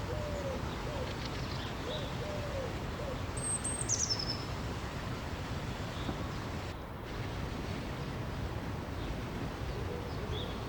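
Steady rush of flowing river water with birds calling over it: a run of low, soft arched calls in the first few seconds and again near the end, a high call falling in pitch about four seconds in, and a few short high chirps.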